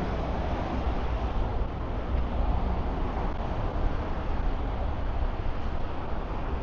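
Steady city street noise: road traffic going by as a continuous low rumble, with no single vehicle standing out.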